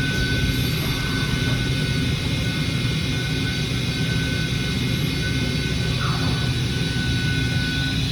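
Hurco CNC milling machine running: a steady machine noise with a low hum and a thin, steady high whine.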